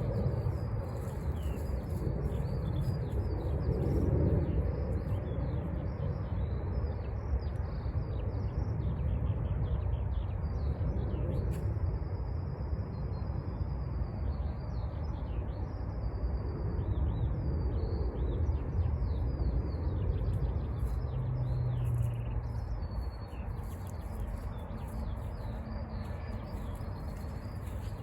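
Small birds chirping and singing over and over, with one long high note held for about three seconds around twelve seconds in. A steady low rumble runs underneath.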